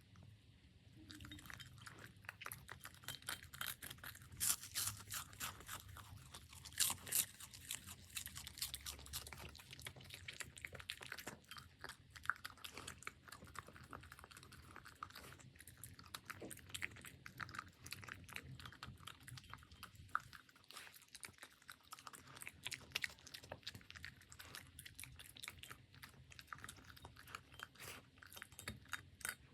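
A puppy eating from its bowl, with rapid, irregular crunching and chewing as it bites through its food.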